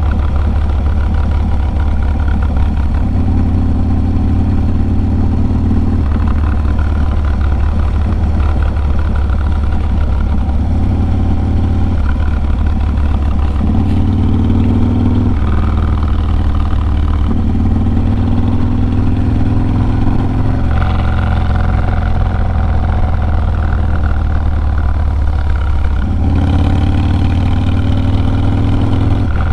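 A Harley-Davidson Low Rider S's 110-cubic-inch V-twin runs through a Sawicki Speed 2-into-1 exhaust under way. Its low, loud note steps up and down every few seconds as the throttle opens and closes and the gears change.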